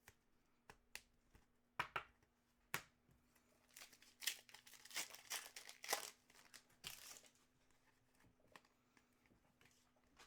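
A few sharp clicks, then a foil trading-card pack being torn open and crinkled for about three seconds, the loudest part a little past the middle. A faint steady hum runs underneath.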